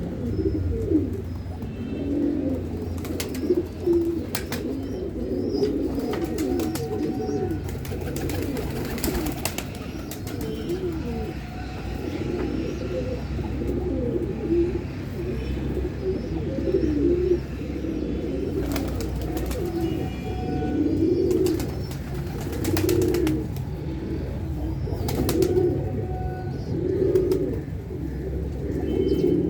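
Many pigeons cooing at once in overlapping low calls, with a few sharp clicks and faint higher chirps now and then.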